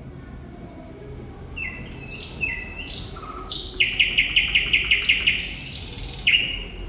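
Thrush nightingale singing. A phrase of clear whistled notes stepping down in pitch gives way to a fast, loud rattle of about eight clicking notes a second, then a short buzzy trill and a final whistled note.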